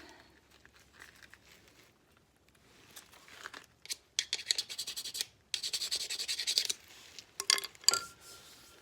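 Metal brake parts scraping and rubbing as a brake pad is worked into place on a disc brake: two stretches of rapid scratching about halfway through, then a few sharp knocks near the end.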